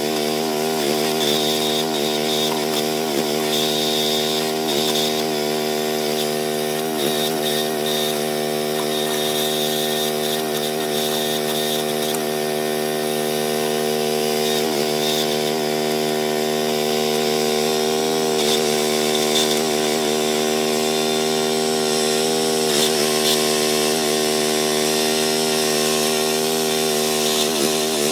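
Small gasoline engine of a towed backhoe running steadily, its pitch dipping briefly every few seconds.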